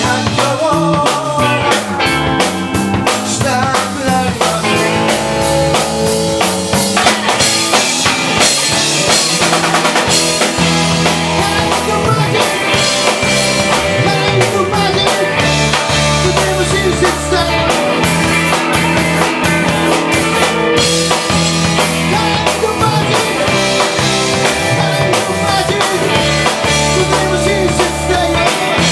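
A live band playing a rock number, with a drum kit beating steadily and hitting rimshots over bass and guitar.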